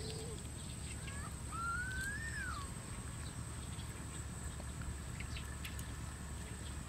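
Wild bird calling: a short whistle about a second in, then a longer whistled note that rises and then drops, over a steady low outdoor rumble. A few faint clicks come later.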